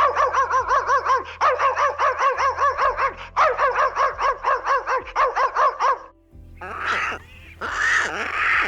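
Animal calls: a fast, even run of short rising-and-falling notes, about six a second, for some six seconds, then harsher, noisier calls near the end.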